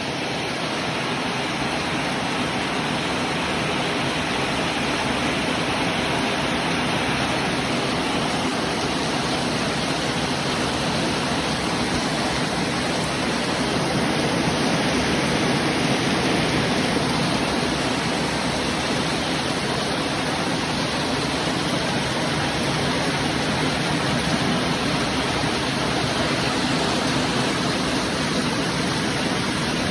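Steady downpour of rain, a dense even hiss that swells and eases only slightly.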